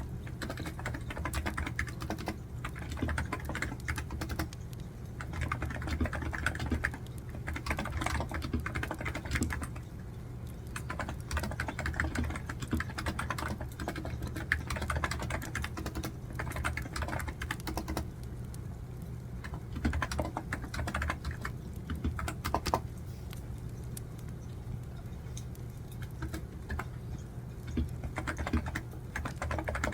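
Typing on a computer keyboard: quick, irregular runs of key clicks with short pauses, over a steady low hum. A crackling wood-fire sound runs underneath.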